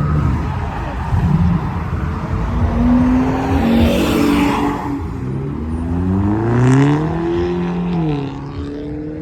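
Car engine revving up, its pitch climbing for a couple of seconds past the middle, dropping briefly about a second later, then holding steady.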